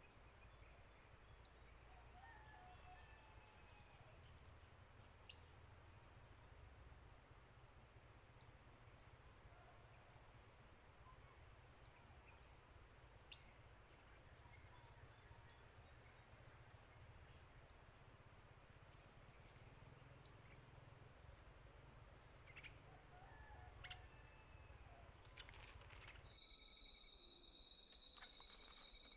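Steady, high-pitched insect trill, as of crickets, pulsing evenly, with a few faint short chirps and ticks over it. About three seconds before the end it switches abruptly to a thinner, lower-pitched trill.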